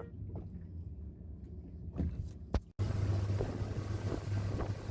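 A low rumble with two sharp knocks, then after an abrupt cut a motorboat's engine drones steadily under wind buffeting the microphone.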